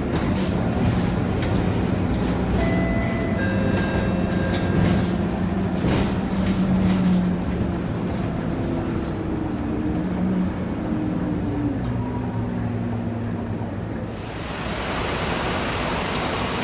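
Scania K230UB bus engine running under way, its note stepping up and down in pitch as it pulls and changes gear. About fourteen seconds in, the engine note drops away and a loud, steady hiss takes over.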